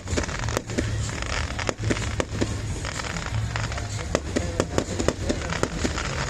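Fireworks exploding: many sharp bangs and crackles in quick succession, several a second, over music with a steady low bass.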